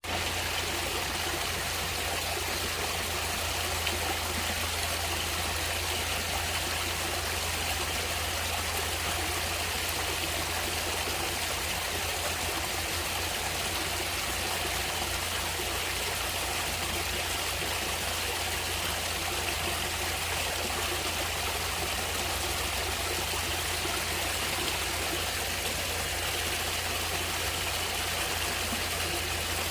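Natural stream of water flowing steadily: an even, continuous rush of running water with no breaks.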